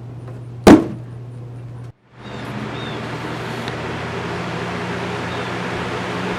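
Electric box fan running with a steady motor hum, struck once with a sharp, loud hit about a second in. After a brief break near two seconds comes a steady, even rush of air noise.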